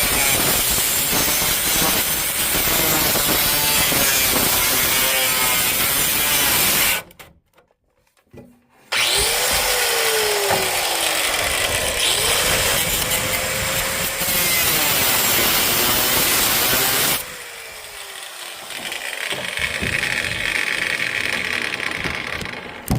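Power tool cutting through the sheet metal of a car's trunk floor. It stops abruptly about seven seconds in and starts again about two seconds later. From about seventeen seconds it runs quieter and lighter, then stops near the end.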